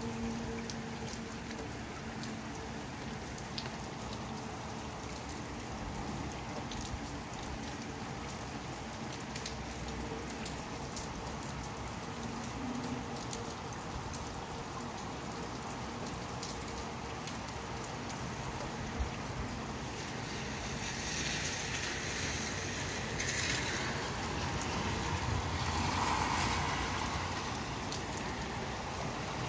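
Steady rain with individual drops ticking close by. From about two-thirds of the way through, a louder rush swells for several seconds and then eases.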